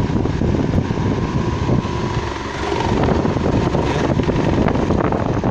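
Britânia electric fan running with its blade badly out of balance: a steady rush of air with a fast shaking rattle as the whole fan vibrates and walks across the surface it stands on.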